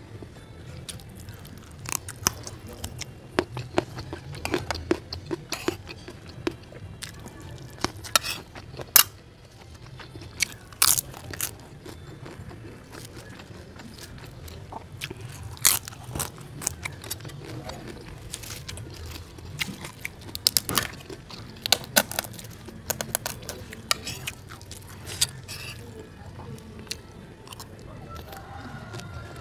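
A person eating by hand, chewing with irregular sharp crunches from crispy crackers and fried rice.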